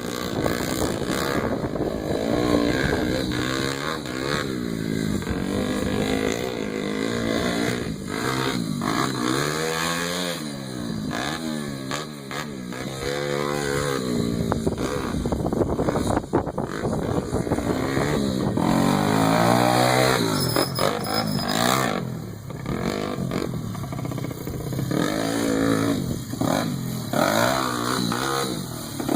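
Pit bike engine revving up and down again and again as the bike is ridden, its pitch climbing and falling every second or two, with a few long swells that rise and drop as it passes.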